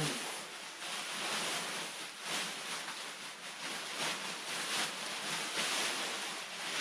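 Rustling and crinkling of nylon tent fabric being handled, swelling and easing unevenly.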